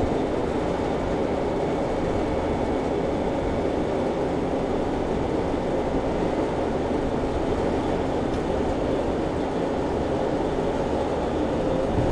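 Steady running noise of a commercial reach-in refrigerator's condensing unit, its compressor and condenser fan, an even mechanical hum with a faint steady tone in it.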